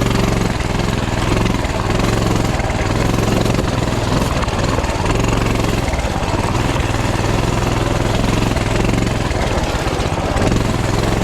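Coleman CT200U mini bike's small single-cylinder engine running steadily at part throttle as the bike is ridden over rough, rocky creek bed.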